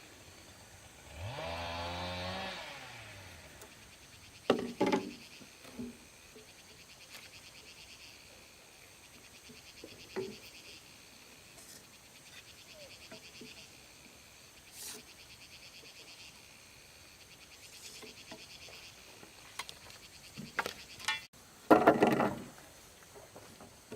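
Steady insect buzzing, broken by a short pitched call about a second in and several scattered wooden knocks, the loudest cluster near the end.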